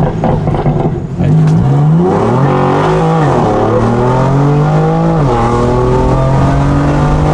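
BMW F82 M4's twin-turbo straight-six, on a freshly fitted single mid-pipe exhaust, accelerating hard from about a second in. The engine note climbs and drops back at upshifts near 3 and 5 seconds in, heard from inside the car.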